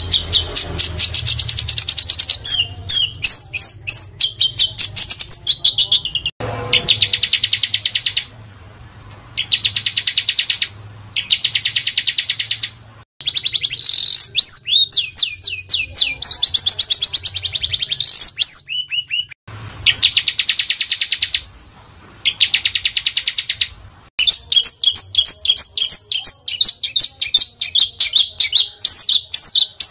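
Small songbird song: rapid, dense, harsh trains of high notes in bursts of a second or two with short gaps, with quick rising and falling whistled sweeps in the middle. It is a masteran recording meant to teach cage birds these phrases.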